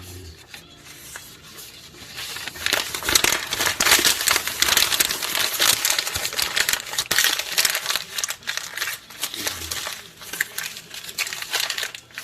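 Paper being crumpled by hand: dense, irregular crinkling and crackling that starts about two seconds in and carries on, as paper is balled up for lighting a wood stove.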